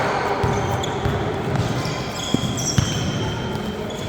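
Basketball bouncing on the court in a gym, with two sharp bounces in the second half over a steady murmur of crowd voices. Short high sneaker squeaks come in the second half.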